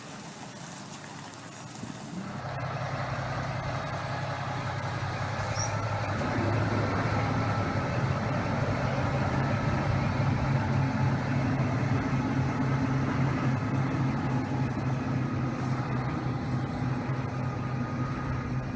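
Diesel engine of a heavy semi-truck running. It gets louder about two seconds in and again about six seconds in, then holds a steady, even note.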